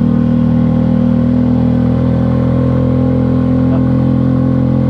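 Motorcycle engine running steadily, its note holding level.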